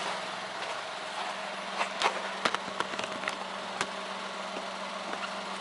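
Honda Vamos Hobio Turbo's small three-cylinder turbo engine idling steadily, heard at the exhaust. A few sharp clicks sound over it in the middle.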